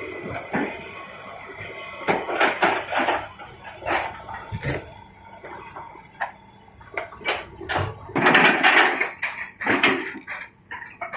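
Irregular knocks, clatters and scraping of hard objects being handled, with a louder, denser stretch of rattling about eight seconds in.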